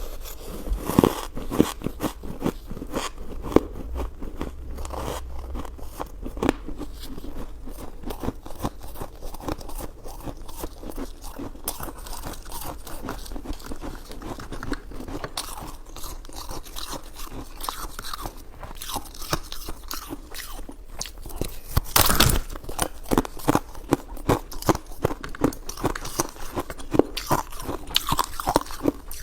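Close-miked eating: irregular crunching, biting and chewing, loudest a little past two-thirds of the way through.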